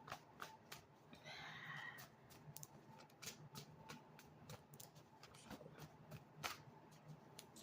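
Near silence, with faint scattered clicks and a brief soft rustle about a second in.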